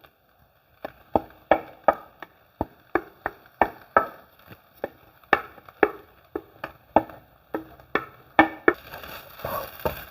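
A cooking utensil knocking repeatedly against a pan, about two to three knocks a second, as a fish, carrot and potato filling is mashed in it. A faint hiss comes in near the end.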